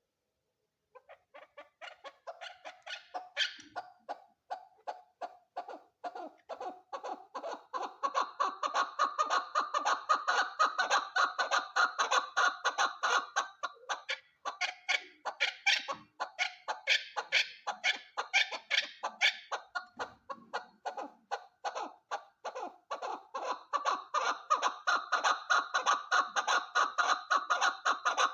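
Female chukar partridge calling: a long run of rapid repeated clucking notes, several a second, that grows louder over the first several seconds and carries on with two brief pauses.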